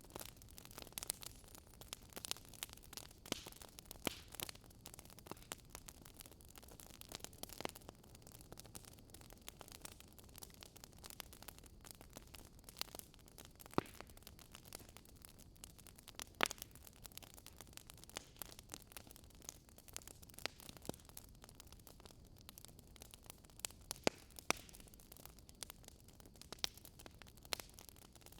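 Wood fire crackling: irregular sharp pops and snaps, several a second and some louder than others, over a soft steady hiss.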